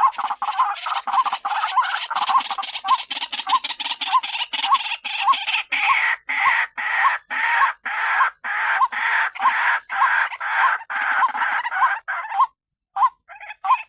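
White-breasted waterhen calling in a long run of rapidly repeated notes, which spread out somewhat about halfway through. The run breaks off near the end, leaving a few scattered notes.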